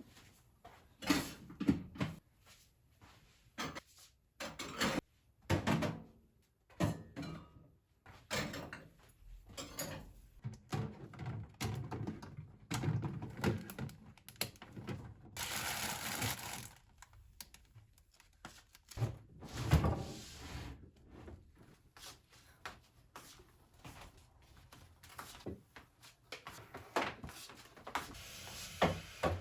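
Household handling sounds: a long run of scattered knocks, thuds and clatters as objects are moved and set down, with a short rushing noise a little past halfway.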